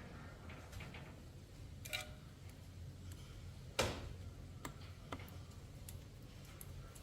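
Scattered light clicks and taps from tools and parts being handled during motorcycle repair work, with one sharper knock a little before four seconds in.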